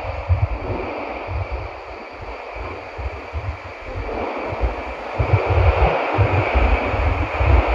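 Nishi-Kyushu Shinkansen running at speed, heard inside the passenger car: a steady rush of rolling and air noise over an uneven low rumble, growing louder about five seconds in.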